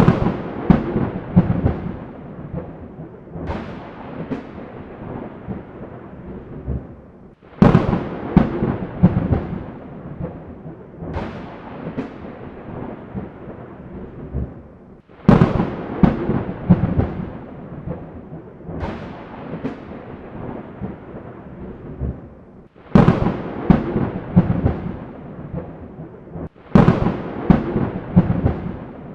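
Thunder during a rainstorm: a sharp clap every few seconds, each breaking into crackling and then a rolling low rumble that fades, over a steady hiss.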